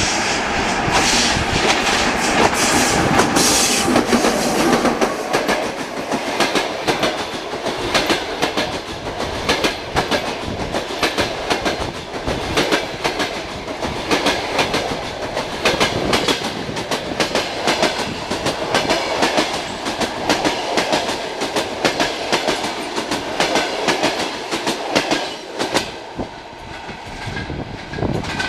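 Long passenger train passing close by behind an EP2K diesel locomotive. The locomotive's engine is heard over the first few seconds. Then the coaches run past with a steady clickety-clack of wheels over rail joints, easing off near the end as the last coach draws away.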